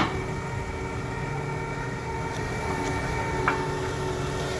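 A heavy machine's engine running with a steady high whine over it, with a sharp metallic clank right at the start and a lighter one about three and a half seconds in.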